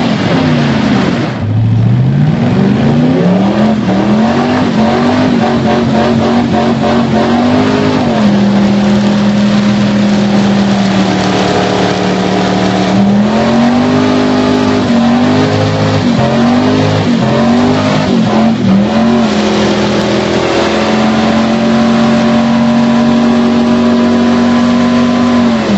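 Holden 253 V8 with mufflers fitted, revved hard during a burnout. The revs dip and climb near the start, hold high and steady for several seconds, then rise and fall repeatedly, over a constant hiss of spinning tyres.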